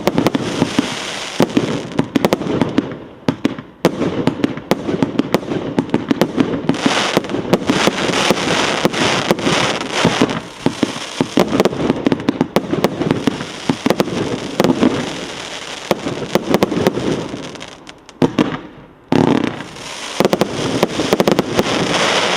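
Multi-shot firework battery firing in rapid succession: a dense run of launch thumps and bursting cracks with crackle, a brief lull about 18 seconds in, then a final burst of shots.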